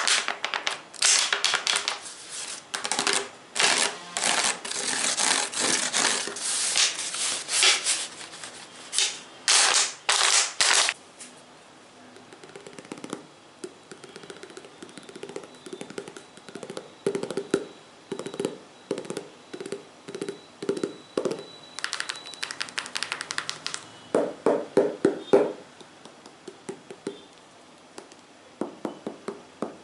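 Tapping on assorted objects, a quick patter of strikes. For about the first eleven seconds the strikes are sharp and crisp and come in dense runs; after that they are softer and duller, with a louder run of low taps near the end.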